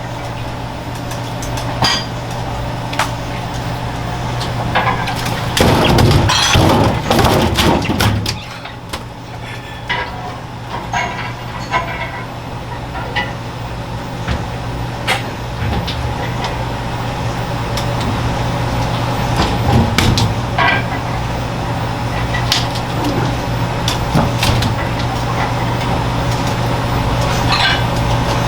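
Kitchen work sounds: scattered clicks, knocks and clinks of knives, utensils and dishes over a steady machine hum, with a denser burst of clatter about six seconds in.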